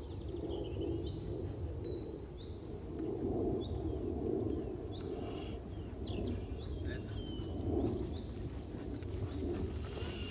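Small birds singing, many quick falling chirps and short trills, over a steady low outdoor rumble with soft low swells recurring about once a second.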